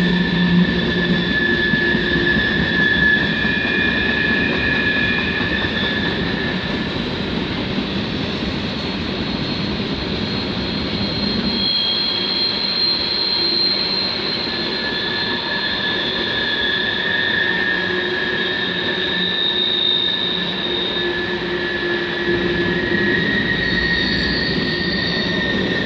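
Freight train's tank cars and covered hoppers rolling past on curved track: a steady rumble of wheels on rail, with high-pitched wheel squeals that come and go.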